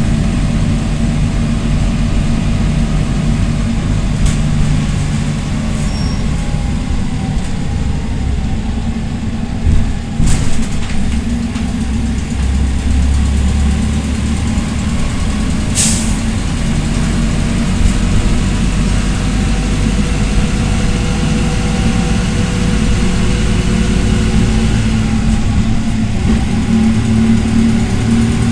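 PAZ-320405-04 Vector Next bus engine running as the bus drives, its tones rising and falling with speed. There is a jolting knock about ten seconds in and a short, sharp hiss about sixteen seconds in.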